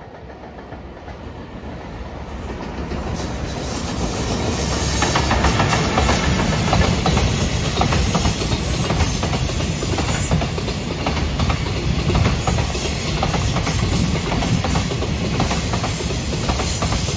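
Freight train of container wagons approaching and passing close by: a rumble that swells over the first few seconds, then holds steady with rapid clicking of the wagon wheels over the rail joints.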